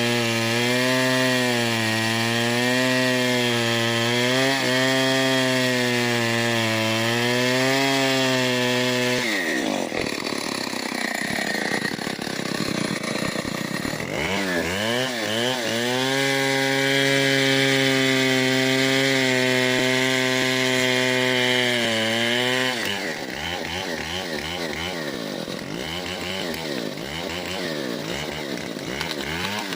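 Stihl 070 two-stroke chainsaw cutting through a large mahogany trunk, the engine held at high revs in the cut with a slight wavering in pitch. About nine seconds in it breaks off into rapid rises and falls of revs, settles back into a steady cut, and near the end goes back to revving up and down.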